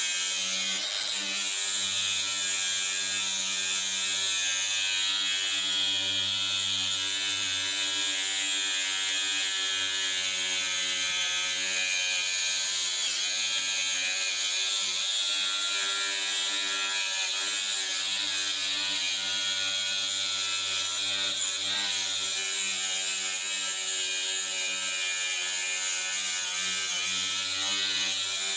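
Brushed Bauer angle grinder running steadily with a 120-grit sanding pad, grinding rust off a rusty metal smoker: an unbroken motor whine over the grit's hiss, its pitch wavering slightly under load.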